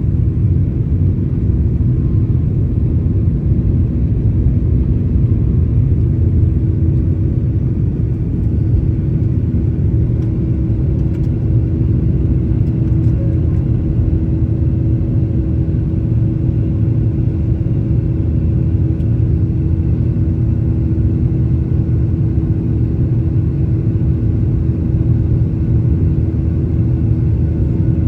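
Steady roar of a Boeing 737's jet engines and rushing air heard from inside the passenger cabin, a constant low rumble with a steady hum over it.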